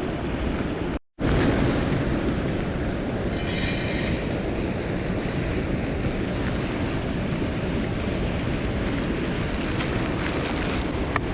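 Steady rush of a mountain stream's flowing water, broken by a brief silent gap about a second in.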